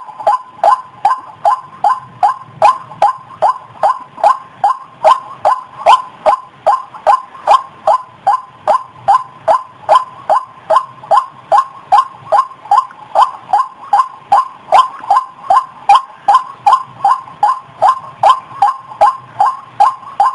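White-breasted waterhen (ruak-ruak) calling, a steady run of short, loud, repeated notes at about two and a half a second: a lure recording used to draw the birds in.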